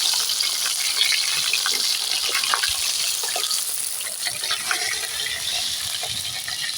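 Rohu fish heads sizzling and crackling in hot oil in a kadai, a steady hiss with many small pops that eases slightly after a few seconds.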